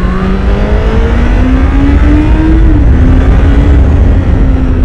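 2016 Honda CBR1000RR SP's inline-four on its stock exhaust, accelerating with the engine note rising steadily. About two-thirds of the way in the pitch drops a little and then holds steady. Heavy low wind and road rumble runs under it.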